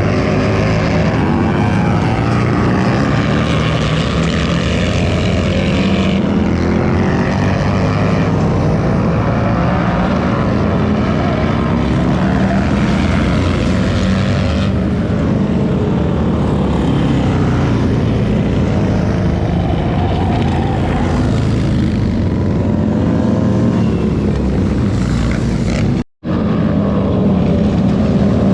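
Motorcycle engines running hard, their pitch repeatedly rising and falling as they rev and pass. The sound cuts out completely for a moment near the end.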